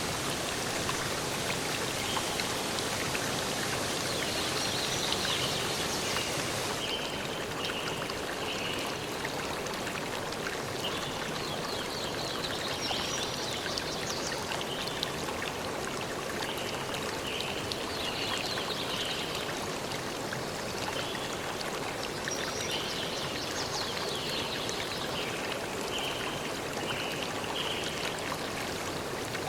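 A stream of water running steadily, with small birds chirping in short high calls at intervals over it. About seven seconds in, the highest part of the hiss cuts off suddenly.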